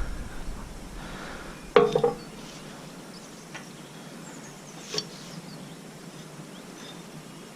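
Loose metal parts clinking as they are handled: one sharp clink about two seconds in and a faint tick about five seconds in, against quiet background.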